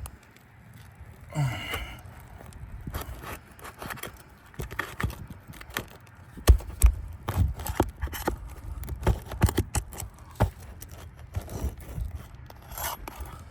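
Metal hand tool scraping and knocking against roof shingles and nails as a leftover nail is worked loose, with a run of sharp knocks and scrapes, the loudest knocks about halfway through.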